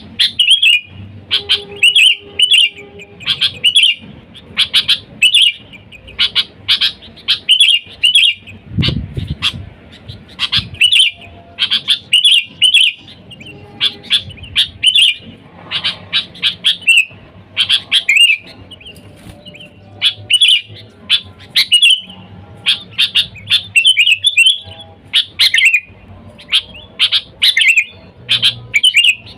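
Sooty-headed bulbul calling over and over in its lively basic call, short chirping notes strung into quick phrases with brief pauses between, the kind of call used to lure wild bulbuls. A brief low rumble comes about nine seconds in.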